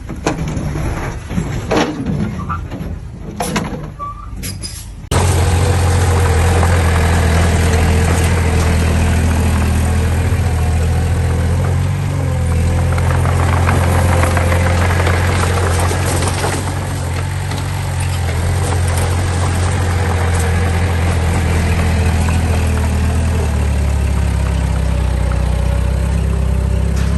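Scattered knocks and clanks, then about five seconds in the steady, loud running of a heavy machine's diesel engine, a low hum that continues unchanged.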